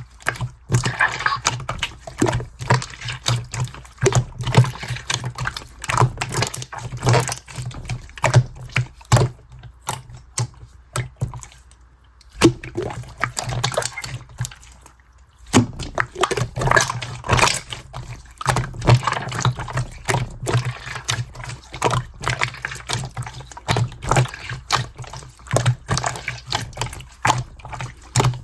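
Sky-blue clear slime being squeezed and worked by hand, making dense, irregular wet clicks and pops, with a quieter lull about ten to fifteen seconds in.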